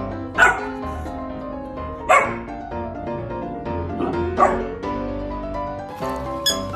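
Golden retriever puppy giving three short, high barks about two seconds apart over background music.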